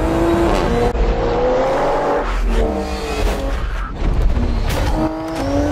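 Toyota GR Supra sports car engine accelerating hard, its pitch climbing in several separate runs.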